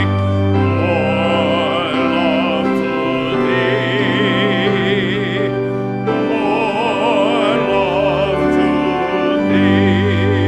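Church music: a slow solo melody with strong vibrato over long-held organ chords.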